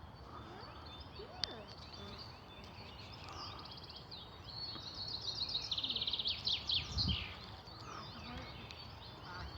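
Small birds singing and chirping high-pitched notes, with a fast, evenly spaced trill lasting about a second midway through. A single sharp click sounds about a second and a half in.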